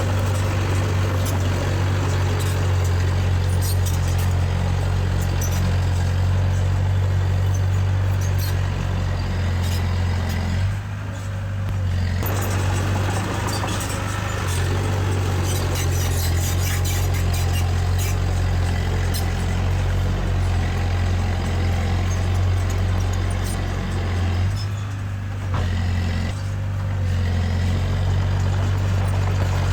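Diesel engine of heavy earthmoving machinery running steadily under load, with many short clicks and clanks over it. The engine note eases briefly twice, about eleven seconds in and again near twenty-five seconds.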